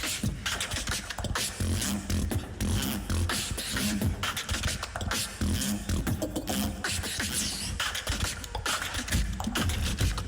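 Tag-team beatbox duo performing a battle round through a microphone: a steady, rhythmic beat of vocal kick drums, snares and bass sounds.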